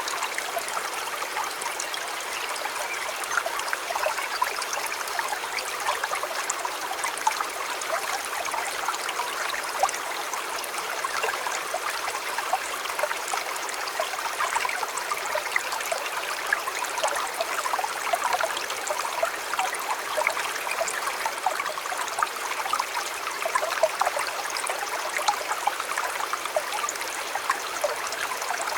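A shallow river or stream flowing steadily, water splashing and trickling over rocks with many small bright splashes.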